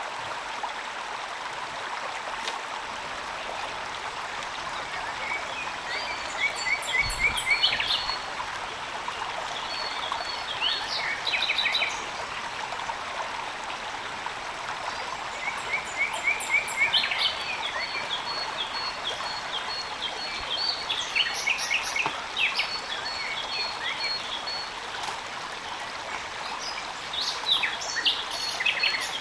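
Steady rain with a wild bird calling over it: runs of quick repeated chirps come and go about five times.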